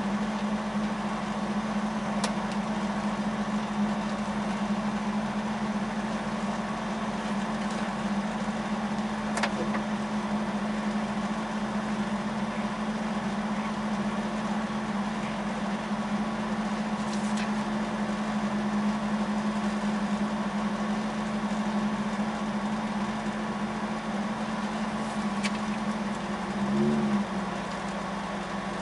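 Volvo 142S rally car's four-cylinder engine idling steadily, heard from inside the cabin, with a short swell in pitch and level near the end.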